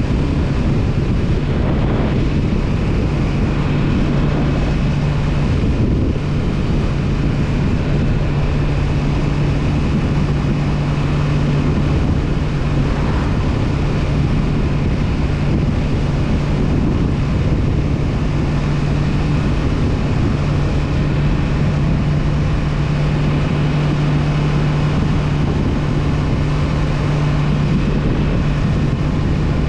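Honda CB500F's parallel-twin engine running at a steady cruising speed, holding one even pitch, with wind and road noise rushing over the microphone.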